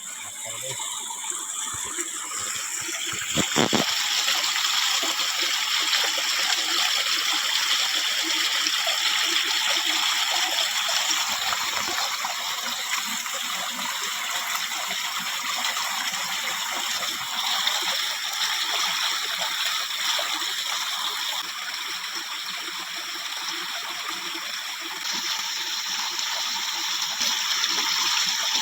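Food frying in hot oil: a knock about three and a half seconds in, then a steady sizzling hiss that runs on.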